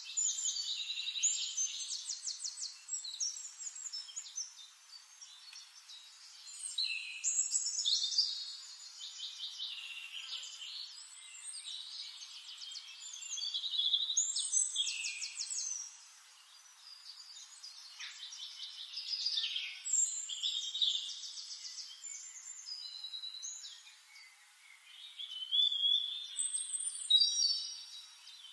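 Songbirds singing: phrases of quick trilled notes and chirps that recur every few seconds.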